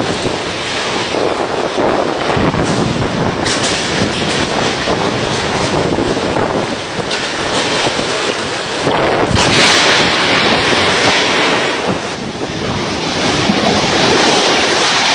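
Strong storm wind blowing hard across the microphone in gusts, with a loud surge about nine to eleven seconds in.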